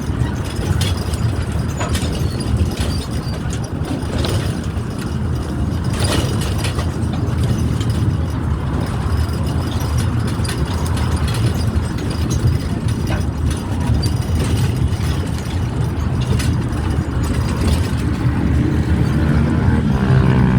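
Steady rumble of a small park tourist train riding along, heard from aboard, with a few knocks in the first several seconds.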